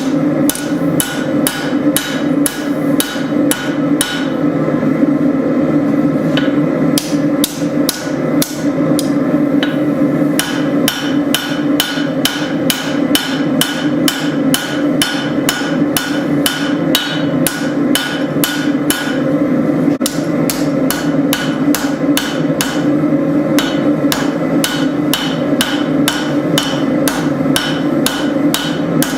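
Hand hammer striking hot spring steel on an anvil in a steady rhythm, about three blows a second, each a sharp ringing clang, with a few brief pauses. A steady low drone runs underneath.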